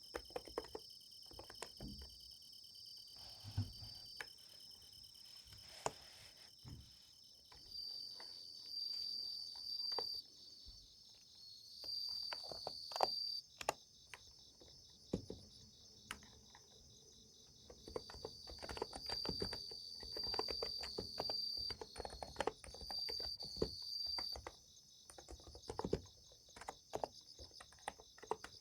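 Unhurried typing on a Niz Plum x108 electrostatic capacitive keyboard, irregular soft key strikes. Under it, a steady chorus of night insects: crickets trilling, with bursts of higher chirping now and then.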